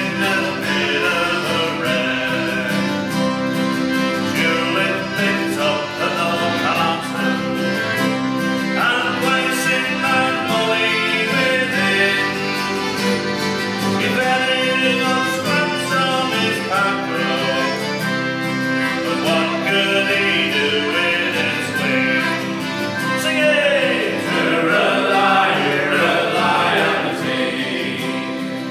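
Folk group singing a sea shanty, with several voices over guitar accompaniment.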